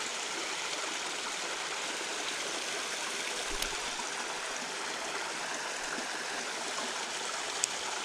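Creek water running steadily over rocks, a constant rushing hiss, with a sharp little tick near the end.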